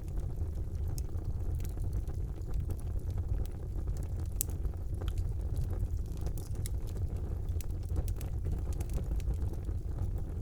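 Wood fire burning in a fireplace: a steady low rumble of the flames with frequent sharp crackles and pops scattered through it, one louder pop about four and a half seconds in.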